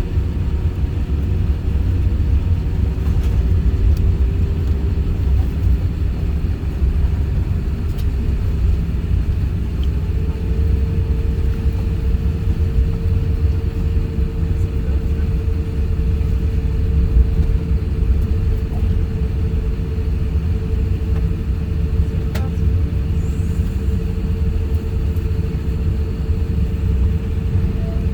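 Cabin noise of an Airbus A350-1000 with its Rolls-Royce Trent XWB engines running: a loud, steady low rumble with a steady hum above it that steps up slightly in pitch about ten seconds in.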